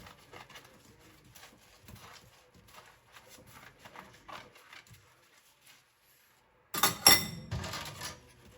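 Small bowls and containers being handled and scrubbed in a sink, with light scattered knocks and clicks. After a short pause, a loud clatter of dishes with a brief ringing comes near the end.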